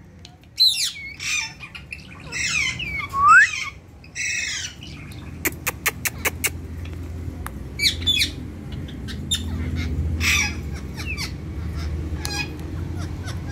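Ringneck parakeets squawking and giving short rising whistled calls, with a quick run of sharp clicks about halfway through. A low steady rumble sits underneath in the second half.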